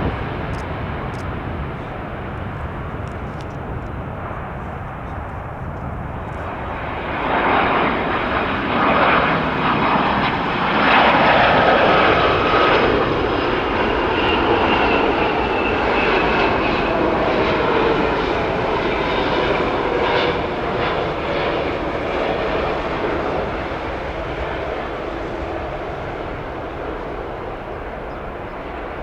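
Jet airliner's engines passing close by. The roar swells about a quarter of the way in and peaks, then slowly dies away, with a high whine that falls in pitch as it goes.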